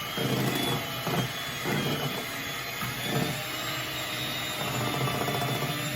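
Electric hand mixer running steadily as it beats a confectioner's-sugar icing in a bowl, its sound swelling and easing as the beaters are moved around.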